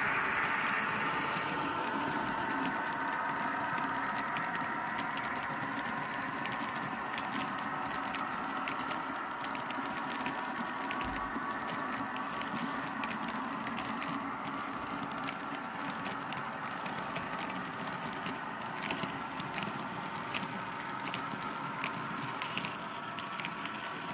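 Model railway locomotive running along the track: a steady electric motor whir with small clicks from the wheels on the rails, a little louder in the first couple of seconds.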